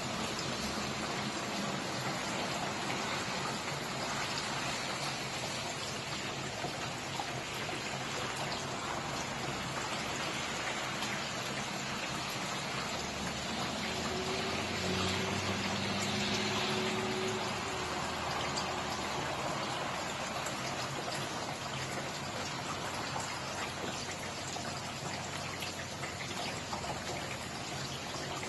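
Steady rain falling, with single drops ticking close by. About halfway through, a faint low hum joins it for a few seconds.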